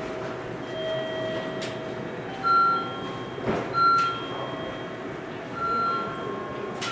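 JR Central train pulling out of a station platform, with a run of steady electronic tones that step between pitches and a few sharp clicks.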